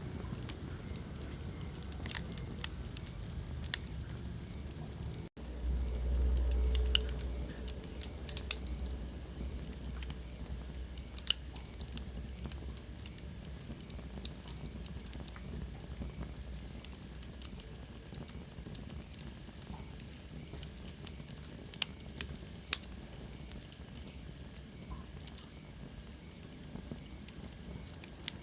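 Wood fire crackling in a fireplace, with irregular sharp pops over a steady low rumble of the flames. The sound cuts out for an instant about five seconds in, then a deeper rumble swells for a couple of seconds.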